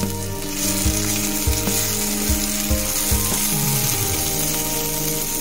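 Onion-tomato masala sizzling in its separated oil in a pan as it is stirred. The hiss brightens about half a second in. About five dull knocks of the spatula against the pan come in the first three seconds.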